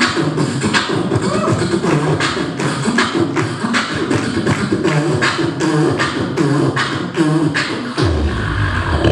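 Live vocal beatboxing: a fast, steady beat of mouth-made snare and hi-hat clicks, about four a second, over a hummed bassline. A deep bass note sounds near the end as the final beat drops.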